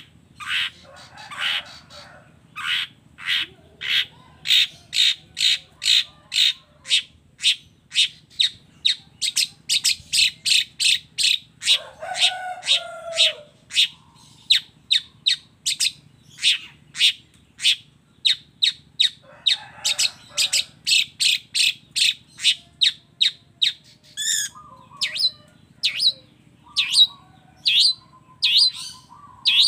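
Long-tailed shrike (cendet) singing a fast run of sharp, high chips, about two to three a second. Brief lower warbling phrases break in a couple of times, and a steadier lower trill comes in near the end.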